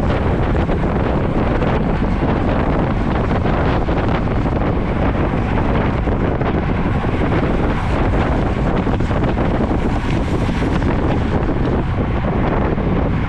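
Steady, loud wind rushing over the microphone of a camera carried on a moving road bicycle.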